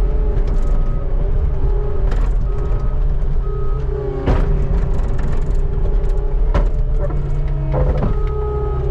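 Skid steer engine running steadily under load while scraping snow with its bucket, with a few sharp knocks scattered through.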